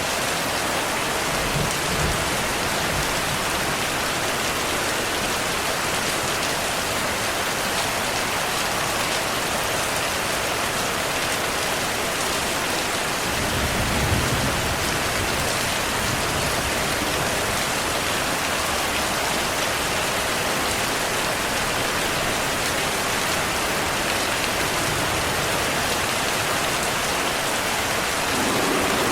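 Steady heavy rain hissing, with low rumbles of distant thunder, the strongest about halfway through.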